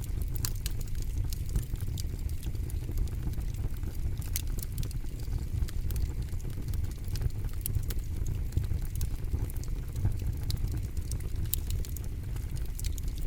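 Campfire burning: a steady low rumble of flames with frequent sharp crackles and pops from the burning wood, scattered irregularly.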